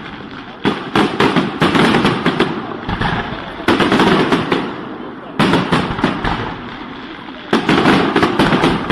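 New Year's fireworks going off: rapid bangs and crackling in repeated loud clusters, each dying away before the next volley.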